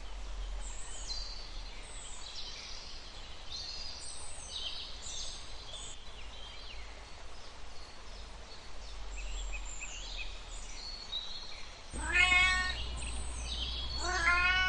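Many quick, high chirps of small birds, and about twelve and fourteen seconds in a cat meows loudly twice, each call bending in pitch.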